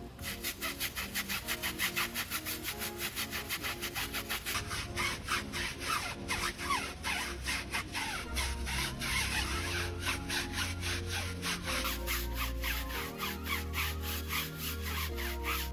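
A brush scrubbing back and forth in quick strokes, about five a second, over background music.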